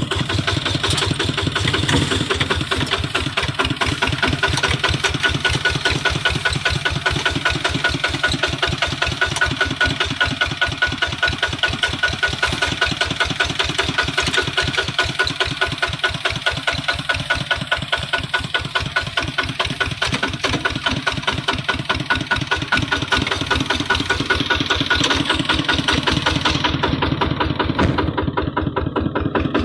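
Kubota hand tractor's single-cylinder diesel engine running steadily with a rapid, even knocking beat.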